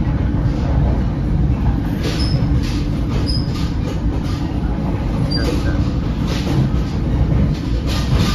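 Heard from inside an NJ Transit Comet V passenger coach at speed: the steady low rumble of steel wheels running on rail, with a quick, uneven run of clacks over the track and a few short high wheel squeals in the middle of the stretch.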